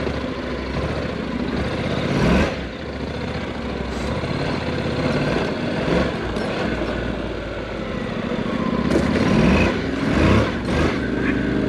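Honda NC700X's parallel-twin engine running while the motorcycle rides along on dirt, with wind and road noise on the microphone. The engine swells about two seconds in and again near the end.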